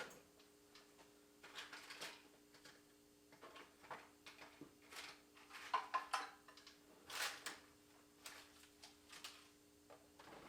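Hand tools being handled in a metal toolbox: irregular clinks, knocks and short scrapes of metal on metal, with a sharper cluster of clinks about six seconds in. A faint steady hum runs underneath.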